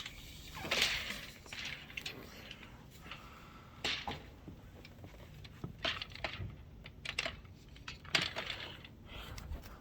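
Irregular light clicks, clatters and rustles, about seven or eight spread over ten seconds, with a low rumble underneath.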